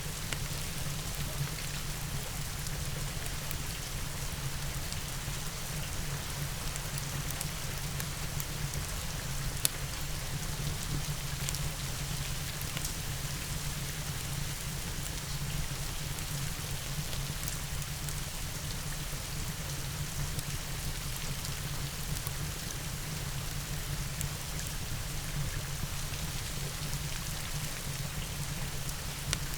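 Steady rain with a low rumble beneath and scattered sharp crackles from a fireplace, one louder crack about ten seconds in.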